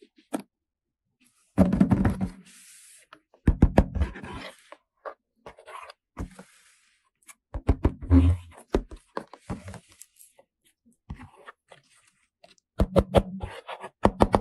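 Hands handling a plastic toy: irregular clusters of sharp knocks and clicks, with short stretches of scraping and rustling.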